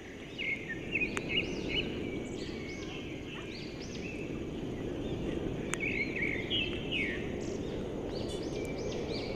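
Birds chirping at dusk in clusters of short, quick calls, over a steady low background noise and a thin, steady high-pitched insect tone.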